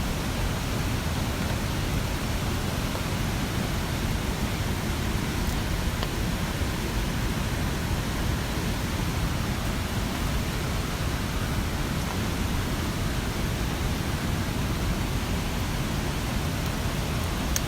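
Steady rush of a mountain stream, an even wash of water noise.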